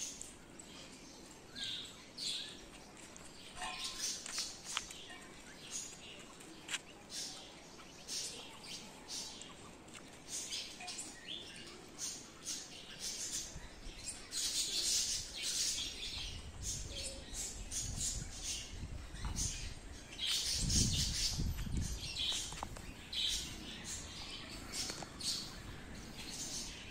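Birds chirping in many short, high calls scattered throughout, with a low rumble coming and going in the second half.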